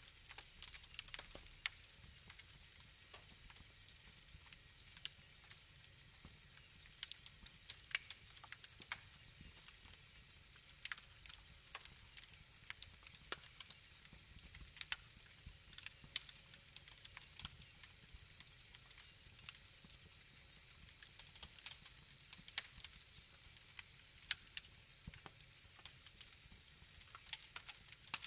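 Wood fire crackling: irregular sharp pops and crackles, several a second, over a faint low rumble.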